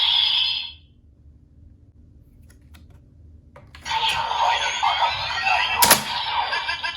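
CSM Decadriver ver.2 toy belt playing electronic sound effects and announcement voice. The first sound stops under a second in, a few faint plastic clicks follow, and about four seconds in a new sound effect starts, with a sharp click near six seconds.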